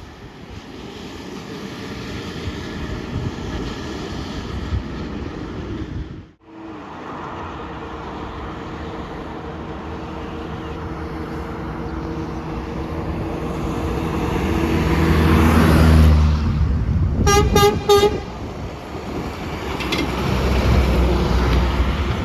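Truck engine growing steadily louder as it approaches and passes, followed just after its loudest point by three short truck horn blasts. Another vehicle passes near the end, and there is a brief break in the sound about six seconds in.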